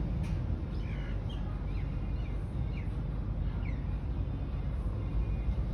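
Small birds chirping: scattered short, falling chirps over a steady low rumble.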